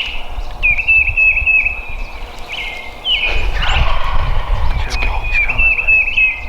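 Hen turkey yelps blown on a turkey call in three short runs of quick, repeated notes, each note breaking downward. A louder, rougher burst comes about three seconds in.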